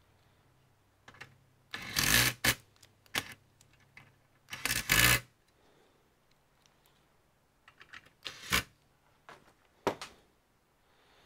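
Computer parts being handled: two short bursts of plastic and metal clatter and scraping, about two seconds in and again near five seconds, with sharp single clicks in between and later on.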